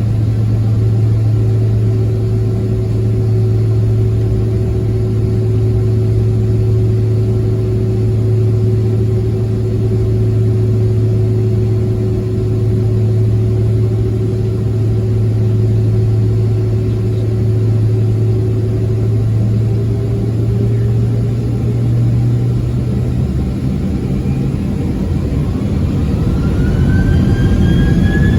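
Boeing 767-300ER cabin with a steady low hum as the jet engines run at low power. About three quarters of the way through, a whine rises in pitch and grows louder as the engines spool up.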